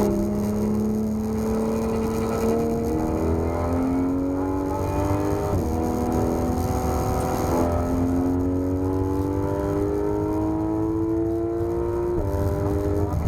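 Porsche 991 GT3 RS's naturally aspirated flat-six pulling hard under load, its pitch climbing steadily through each gear. It drops sharply on upshifts about five and a half seconds in and again near the end.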